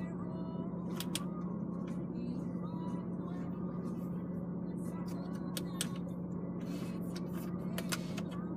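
A string of short sharp clicks of the Audi MMI infotainment controls being pressed and turned while the menus are stepped through, over a steady low cabin hum.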